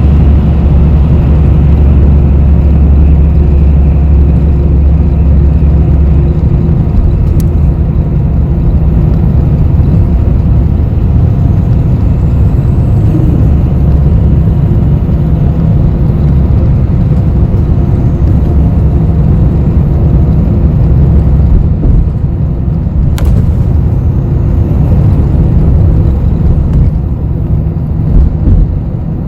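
Bus riding along, heard from inside the cabin: a steady low rumble of engine and road noise, its deepest engine note easing about six seconds in.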